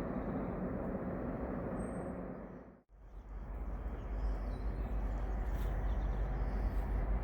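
Trackside noise of a passing freight train: a steady mechanical rumble. About three seconds in it cuts out for a moment and comes back with a heavier, deep low rumble.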